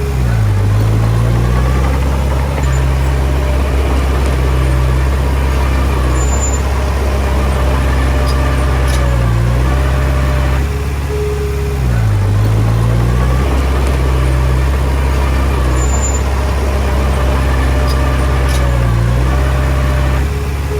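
Komatsu D20P bulldozer's diesel engine working steadily, its note dipping briefly and recovering about four times as it takes load while pushing soil.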